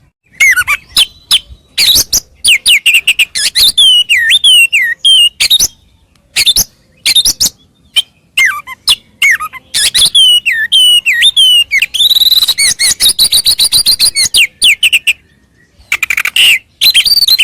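Oriental magpie-robin singing loudly: fast runs of sharp clicks and chips mixed with whistled notes that slide up and down, in bursts broken by short pauses, with one longer pause near the end.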